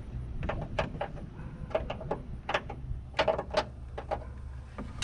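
Irregular clicks and clacks of metal jumper-cable clamps being handled and fitted to battery studs, over a steady low hum.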